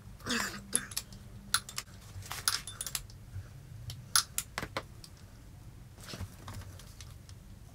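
Spanner clinking and knocking against a motorcycle exhaust nut and pipe as it is worked in a tight spot: irregular sharp metallic clicks.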